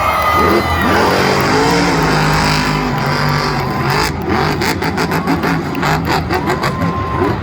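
Monster truck engine running loud and revving, its pitch rising and falling, with a rapid series of sharp cracks in the second half.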